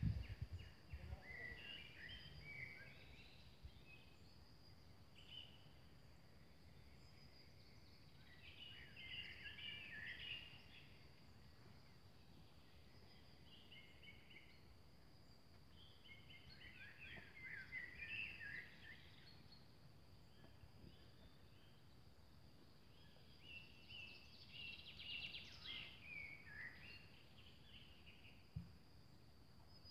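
Faint outdoor ambience: a songbird sings four short chirping phrases, one about every seven seconds, over a steady high-pitched hum and a low rumble, with a single soft knock near the end.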